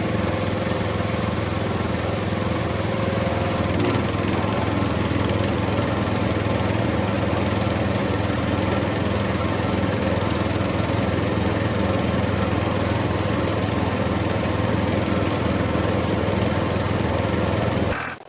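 Small motor of a homemade model tractor and chaff cutter running steadily, with a constant low hum under a noisy whir. It cuts off abruptly near the end.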